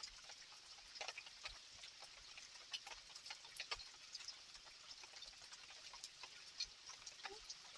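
Light rain falling: a faint, steady hiss with many irregular ticks and drips of drops striking hard surfaces.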